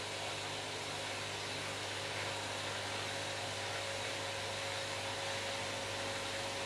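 Washing machine running with a steady whir of motor and drum and no pauses; a faint higher tone comes in about halfway through.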